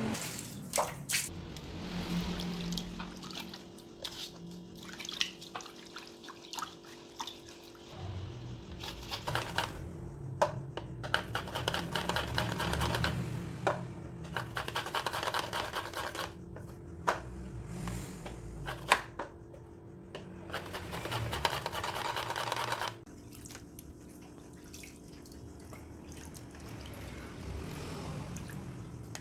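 Liquid sounds with many scattered sharp clicks and knocks. Everything gets quieter for the last several seconds.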